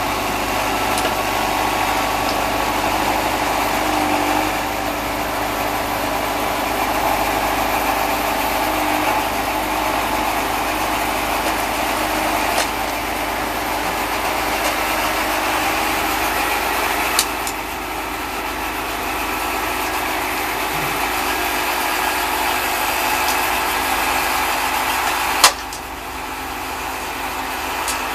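Case David Brown 1212 tractor's diesel engine running steadily with the snowblower, with a few sharp knocks; the loudest comes near the end, after which the running sound drops a little.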